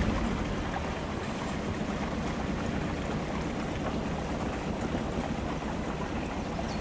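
Sailboat under way: a steady low engine hum with water rushing along the hull.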